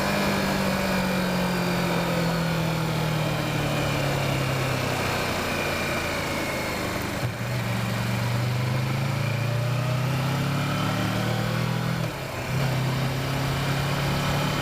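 Kawasaki Versys motorcycle engine under way. The revs ease down slowly, then climb steadily, and near the end they drop briefly as it shifts up, then run on at a lower pitch.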